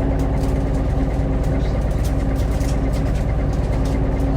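Cabin sound of a Hino Blue Ribbon hybrid city bus (type 2SG-HL2ANBP): a steady low engine rumble with a constant hum over it.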